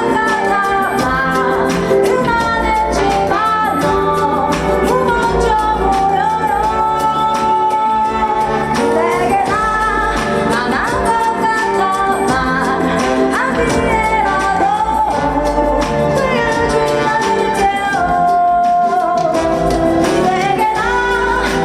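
A woman singing a pop ballad live with full band accompaniment, her melody gliding and held over a steady beat.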